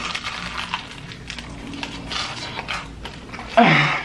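Crunching and chewing as two people bite into crispy fried chicken, with many small crackles of breaking crust. Near the end comes a short, loud vocal sound falling in pitch.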